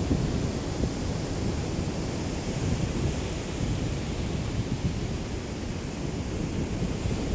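Small waves of a calm sea lapping on the shore, with a light breeze rumbling on the microphone.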